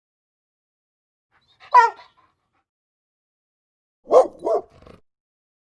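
A dog calling: one short yelp that slides down in pitch about two seconds in, then two quick barks about four seconds in, with silence between the sounds.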